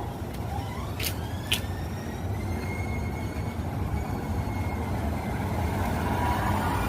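Light rail train running with a low rumble, its motor whine rising in pitch over the first few seconds and then holding steady. Two sharp clicks come about a second in, half a second apart.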